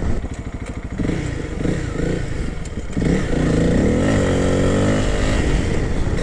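Honda CRF300L's single-cylinder four-stroke engine running under the rider, low and quieter at first, then pulling harder from about three seconds in, its revs rising and dipping.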